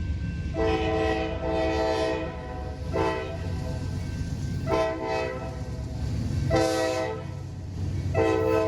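Nathan K5LA five-chime air horn on a GE AC44CW diesel locomotive sounded in a series of blasts, six in all; the first two run almost together. They come over the steady low rumble of the locomotive's diesel engine.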